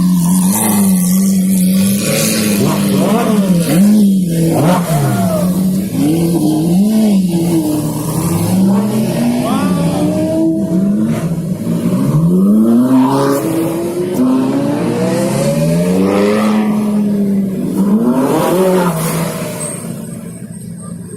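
High-performance car engines idling, blipped into short revs again and again, each rev rising and falling in pitch.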